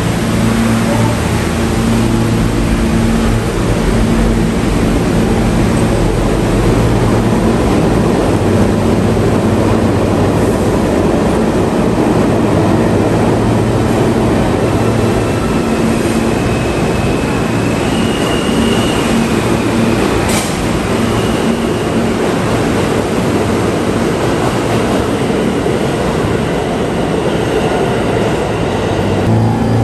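New York City subway train running through a station: a loud, steady rumble with a low motor hum. About two-thirds of the way in there is a brief high wheel squeal, then a sharp click.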